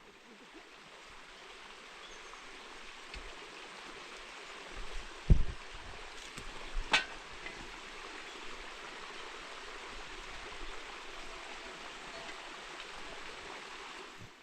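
Steady rush of running water, with a dull thump about five seconds in and a sharp click a moment later.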